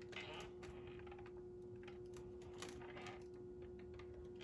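Faint light clicks and rattles of plastic as a Hoover WindTunnel upright vacuum's base is handled and flexed, over a steady faint hum.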